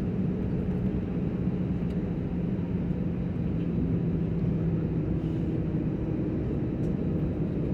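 Airplane engines running steadily before takeoff: a continuous low drone with a steady hum.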